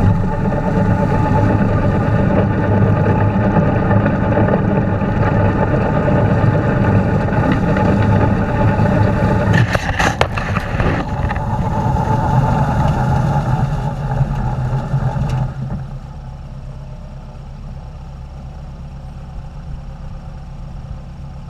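Tractor engine running steadily with a three-point snowblower, with a few sharp knocks about ten seconds in. About fifteen seconds in the sound drops suddenly to a quieter, lower running.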